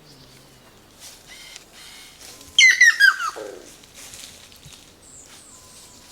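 A bird's call: a loud, quick series of notes falling steeply in pitch, about two and a half seconds in, with faint chirps around it.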